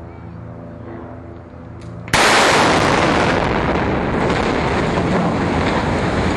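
Demolition charges on a steel river bridge detonating in one sudden loud blast about two seconds in, followed by a sustained loud, noisy roar of the blast and the falling structure.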